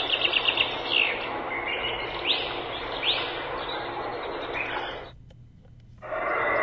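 Recorded nature sound from a white noise machine's speaker: birds chirping, a quick trill then two separate chirps, over a steady rushing background. It cuts off about five seconds in, and after a short pause a different recorded sound starts.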